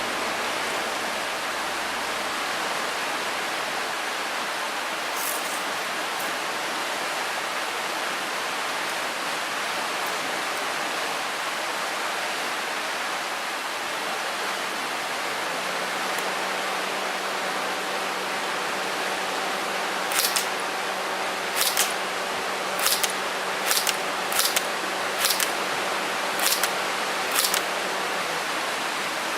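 Airsoft gun firing single shots, sharp snapping clicks about once a second through the last third, over a steady hiss. A faint steady hum joins about halfway through.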